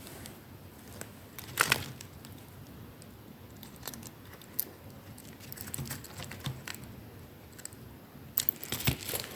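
Small clicks and taps of handling a tiny model locomotive tender and fine screwdriver, with a sharper click about one and a half seconds in and a quick run of clicks near the end.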